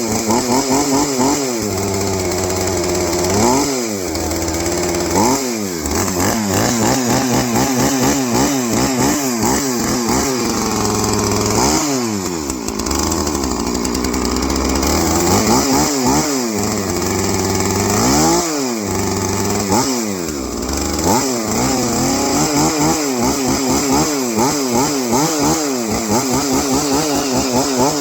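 Freshly repaired two-stroke chainsaw running, its throttle worked over and over so the engine speed keeps rising and falling. There are quick wobbles throughout and several bigger revs that climb and drop back every few seconds.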